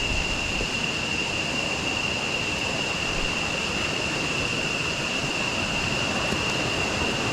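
Steady rush of a jungle river tumbling over rocks and small cascades, with a steady high-pitched tone above it.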